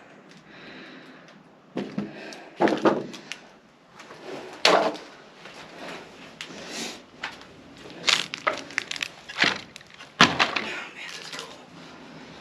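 A series of irregular sharp knocks and cracks, some loud and some faint, with the loudest coming about a third of the way in and near the end.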